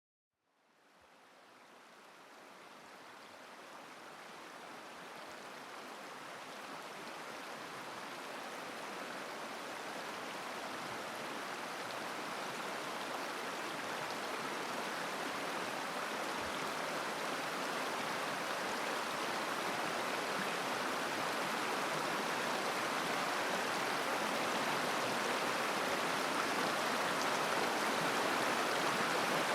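Mountain river flowing over stones, a steady rushing murmur of water that fades in from silence and grows gradually louder.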